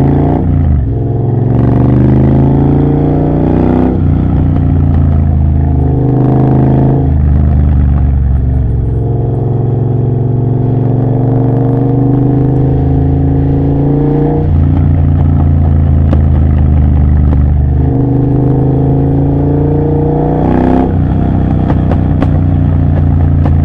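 Triumph Bobber's 1200 cc parallel-twin engine breathing through a Motone Mayhem X-pipe with almost no silencing. It is ridden hard up through the gears, the exhaust note rising in pitch and then dropping back at each gearchange, about six times.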